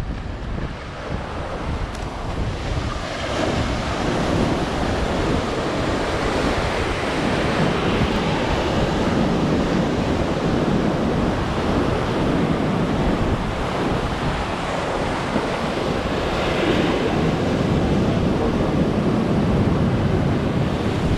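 Storm-driven surf breaking and washing on the beach, with strong wind buffeting the microphone as a low rumble.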